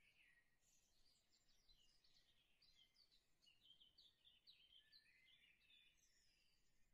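Very faint birdsong: a continuous string of quick chirps and twittering notes, otherwise near silence.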